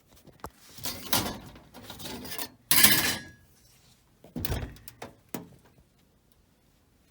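Metal being handled: a series of scrapes and clanks, loudest about three seconds in, with a heavier thump about a second and a half later.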